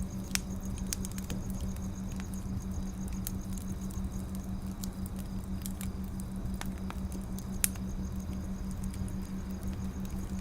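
Wood fire crackling: scattered sharp pops and snaps over a low steady hum, with two louder pops, one just after the start and one about three quarters through.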